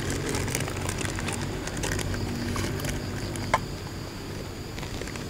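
Campfire crackling with scattered ticks and one sharp pop about three and a half seconds in, over a steady low hum.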